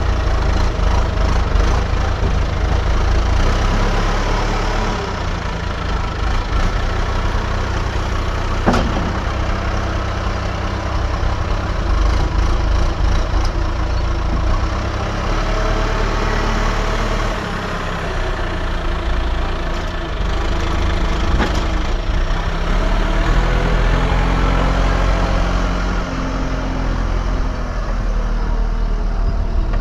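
Diesel engine of an earthmoving machine running steadily, its pitch rising and falling as it works in the second half, with one sharp knock about nine seconds in.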